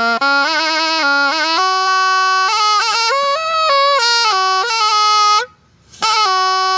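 Thai pi, a double-reed oboe, played solo: a melody of ornamented, wavering notes that breaks off about five and a half seconds in, then resumes with one held note that stops near the end.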